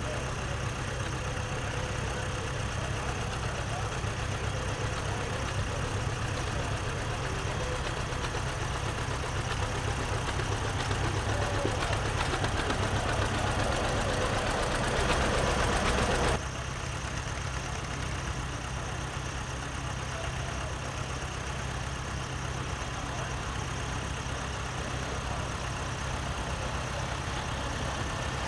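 Antique tractor engines running at low speed, a steady low engine sound. It grows louder until about sixteen seconds in, then drops suddenly to a quieter steady level.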